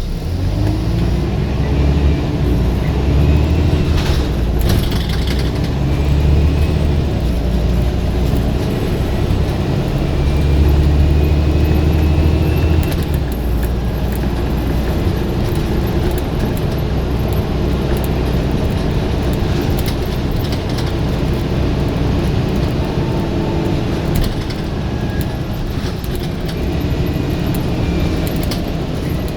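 Scania single-deck bus engine working hard under acceleration, heard on board, with several loud surges of power and easing off between them, plus a faint rising whine from the driveline.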